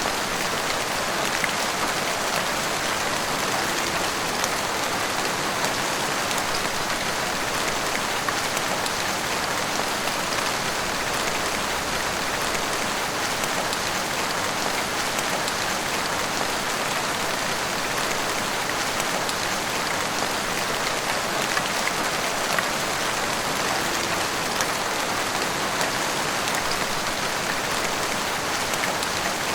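Heavy rain falling steadily, with the patter of drops on the street and rooftops.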